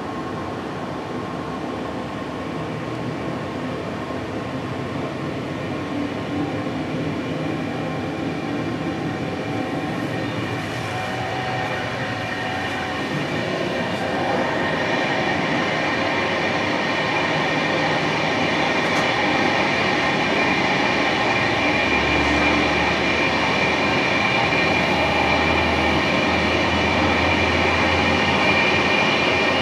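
Passenger train running on the rails, a steady rumble that grows gradually louder, with a whine of several steady high tones building through the second half.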